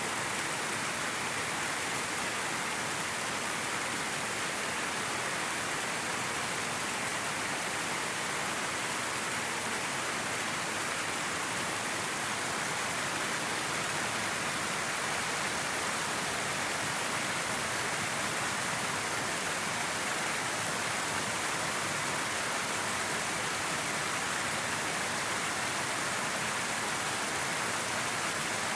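River water flowing and rushing over rocks, a steady even hiss with no breaks.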